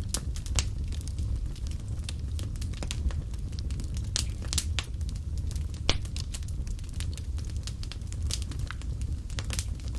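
Wood fire burning in a fireplace: a steady low rumble of flames with irregular sharp crackles and pops, one louder pop about six seconds in.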